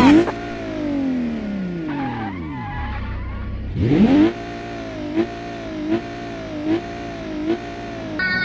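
Car engine revving up sharply, then its pitch sinks as it winds down over a couple of seconds. It revs up again about four seconds in and holds a steady pitch, with four short blips of the throttle.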